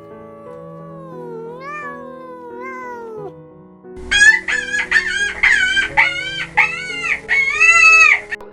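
Background music with an animal call: a slow, wavering call over the first three seconds, then a loud rapid series of about eight short, high, arching calls starting about four seconds in.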